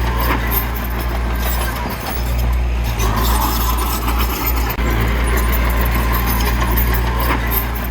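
Heavy diesel earthmoving machinery running steadily, a deep continuous engine drone with a brief dip about halfway through.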